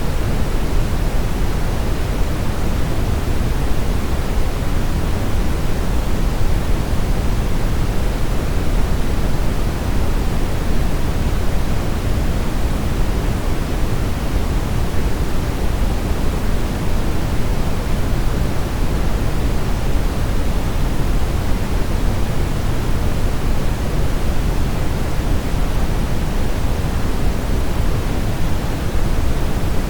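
Steady brown noise: an even, deep rushing hiss, strongest in the bass and falling away toward the treble, with no changes.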